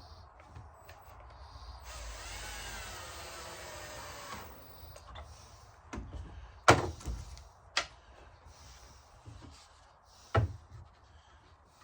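Cordless drill driving a pocket-hole screw into a board for about two and a half seconds, its motor pitch wavering. Three sharp knocks follow, the first the loudest.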